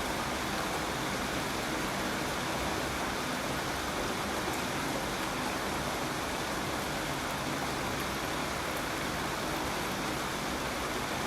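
Steady rain falling, an even hiss that does not change in strength.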